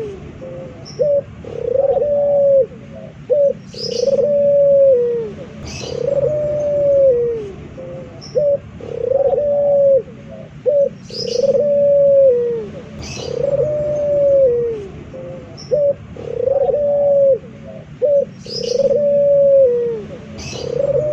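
A male puter dove (ringneck dove) cooing over and over, about one long coo every two seconds. Each coo holds its pitch and then drops at the end, and short clipped notes come between the coos.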